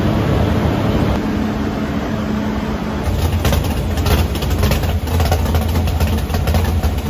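Chevy Vega drag car's engine idling loudly while its ignition timing is checked with a timing light. About three seconds in it turns deeper and more uneven.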